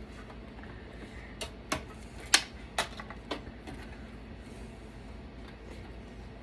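A run of about six sharp clicks and knocks in two seconds, the loudest in the middle, from a desktop computer being taken apart, over a steady low hum.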